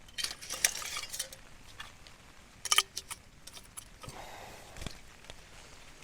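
Metal camping cookware clinking and knocking as a kettle is handled and set up, with one sharp metallic clank that rings briefly about three seconds in.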